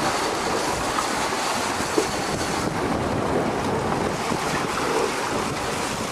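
Wind buffeting the microphone over the steady rush of the sea against a moving fishing boat, with a single short knock about two seconds in.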